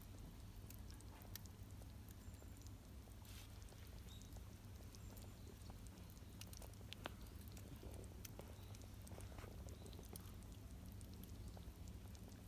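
Faint, sparse crackling and popping of a wood campfire, irregular small clicks over a low steady hum.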